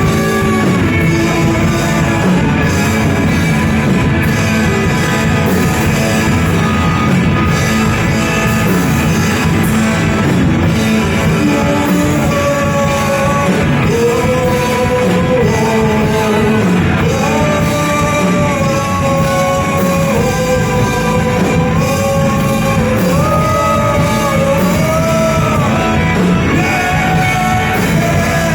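Live rock band playing loud with electric guitar, bass and drums; lead vocals carry a melody with held notes from about halfway through.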